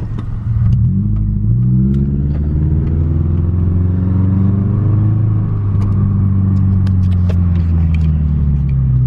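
Subaru Impreza 2.5 RS's flat-four engine running with the muffler deleted, its exhaust note climbing about a second in, holding steady, then easing off near the end.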